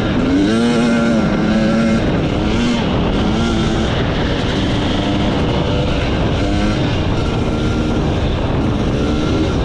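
Enduro motorcycle engine under throttle, its pitch climbing and then holding several times as the rider opens and eases the throttle, over a constant rushing noise.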